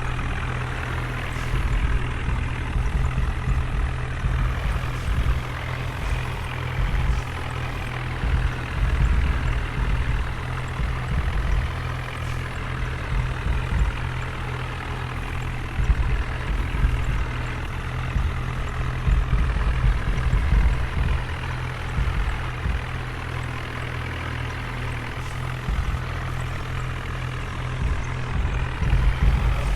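A heavy vehicle engine running steadily, with a low rumble that rises and falls unevenly.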